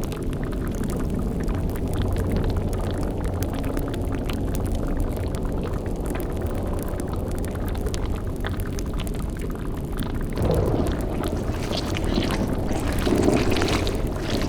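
Layered spooky sound-effects ambience: a steady low drone under continuous bubbling and crackling, as of a boiling cauldron over a fire. Two louder gurgling swells come about ten and thirteen seconds in.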